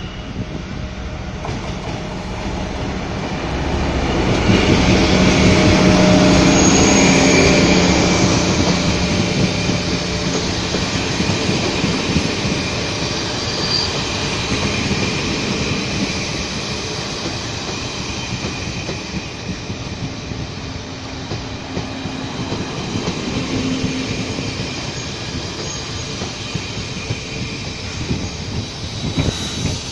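A diesel-electric locomotive passes close by, loudest about four to eight seconds in, with its engine drone. The wheels of the following coaches then roll past steadily over the rails, with a few brief high wheel squeals.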